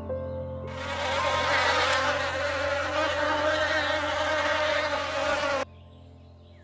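Insects buzzing steadily for about five seconds, then cutting off suddenly, over soft background music.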